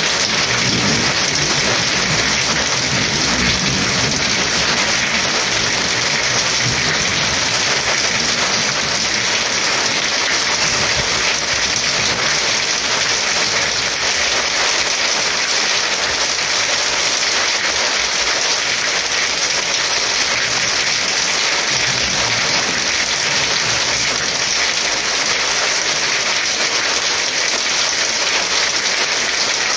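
Heavy rain falling steadily, a dense unbroken hiss of downpour on surfaces.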